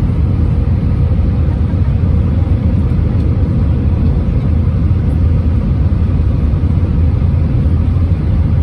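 Steady low rumble inside the cabin of an Airbus A320-231, from its IAE V2500 engines and the airflow and running gear, with a faint steady hum on top.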